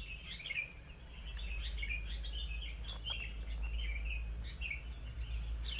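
Many small birds chirping continuously in quick, short notes, over a steady low hum.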